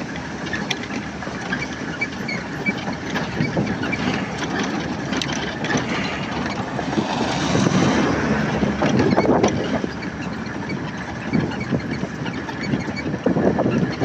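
Safari vehicle driving on a dirt track: steady engine and road noise with scattered knocks and rattles.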